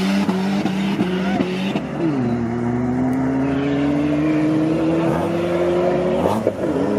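Two cars, one an Audi S3 8L, launching from a drag-race start line and accelerating hard down the strip. The engine note drops at a gear change about two seconds in, then climbs slowly and steadily as the cars pull away.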